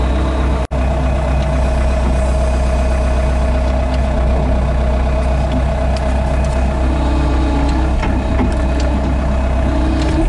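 An engine idling steadily, with a brief cut-out in the sound under a second in.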